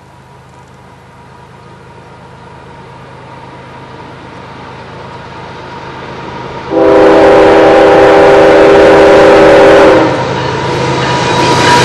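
Approaching CSX diesel locomotive hauling a loaded coal train, its engine and wheel noise growing steadily louder. About two-thirds of the way in, the locomotive's horn sounds one long chord blast of about three seconds. The rumble of the passing locomotive and hopper cars follows.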